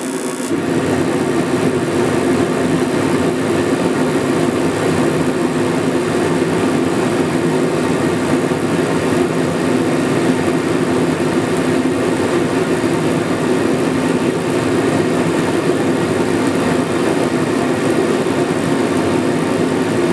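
Electric fan motor of a Mr. Heater 60,000 BTU propane forced-air heater running with a steady hum, while its burner has not yet lit. It gets louder about half a second in.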